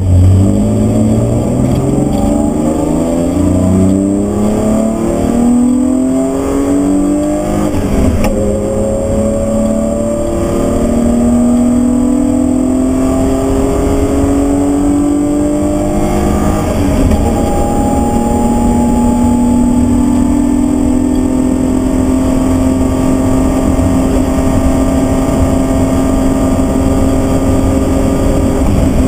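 BMW E36 323's straight-six engine, heard from inside the cabin, accelerating hard through the gears. The engine note climbs and drops back at each upshift, several times early on and again about 8 and 17 seconds in, then rises slowly and steadily in a high gear.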